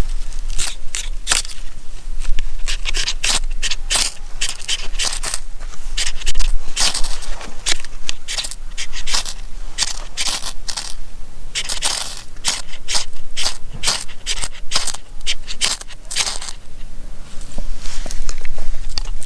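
Knife spine struck repeatedly down a ferrocerium rod to throw sparks onto tinder: a string of short, sharp, hissing scrapes, several each second, that stop about three seconds before the end.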